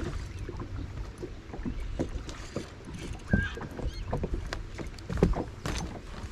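Water splashing and knocking against a fishing boat's hull as a small hooked bass is fought at the boat side, in irregular short splashes and thumps over a low rumble.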